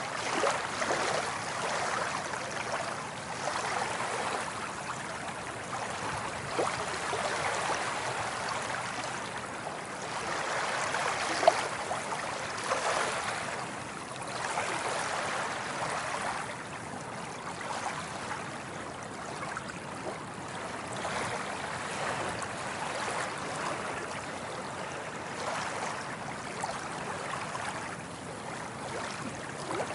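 Small waves washing and lapping at the water's edge in gentle swells every few seconds, with one sharp click about eleven seconds in.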